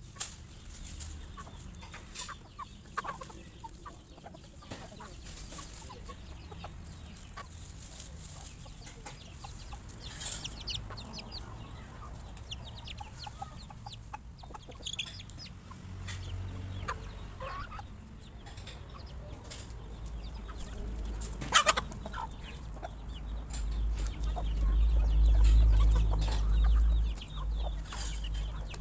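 A flock of chickens clucking while they feed, with scattered short clicks. There is one sharp knock about two-thirds of the way in, and a low rumble swells near the end.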